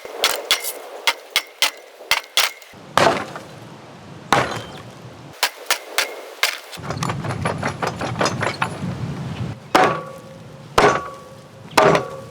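Irregular hammer blows on the old cart's steel wheel and hardwood, more than a dozen strikes. Several of them ring out with a metallic tone.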